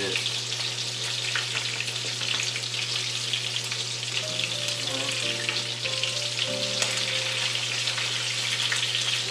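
Batter-coated razor clam pieces sizzling and crackling steadily in hot oil in a skillet as they are turned over in the pan.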